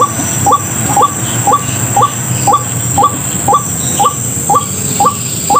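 White-breasted waterhen call, a short note falling in pitch, repeated evenly about twice a second.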